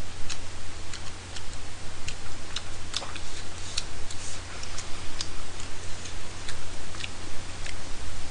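Mouth sounds of someone chewing tteokbokki close to the microphone: irregular small clicks, two or three a second, over a steady low hum.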